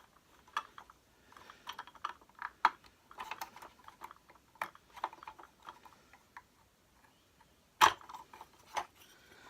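Small plastic clicks and scrapes as a wheel cap on a Hoover Turbopower Junior upright vacuum cleaner is prised at, then a loud sharp snap near the end as the cap pops off, followed by one more click.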